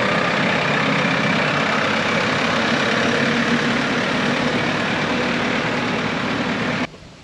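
Engine running steadily at a constant speed, cutting off abruptly near the end.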